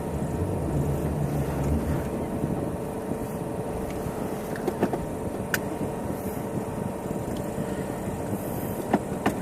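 Car engine idling, heard from inside the cabin as a steady low rumble, with a few light clicks around the middle and near the end.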